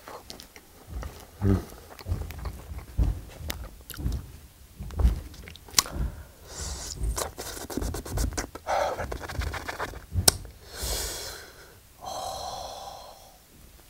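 Close-up chewing and wet mouth clicks from a man eating a piece of whole pan-seared Spam, with loud puffing breaths through an open mouth. A short voiced 'ooh' comes near the end.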